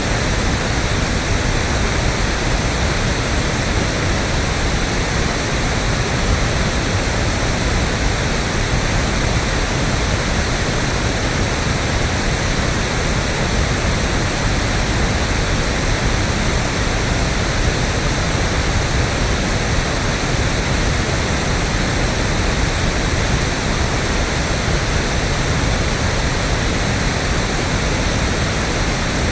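Electronically generated pink noise: a steady, unchanging hiss spread evenly across the whole range, with more weight in the lows than TV static.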